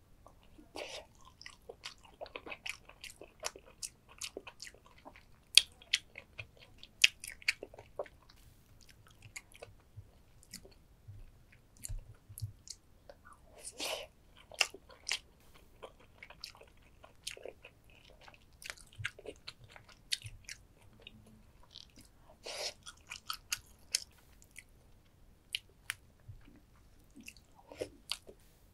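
Eating soy-sauce-marinated rock crab: chewing with many short, sharp, irregular crunches as the shell is bitten and cracked.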